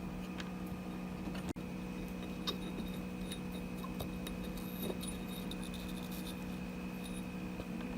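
A steady low electrical hum with a faint high whine, and a few light clicks and taps of small parts being handled.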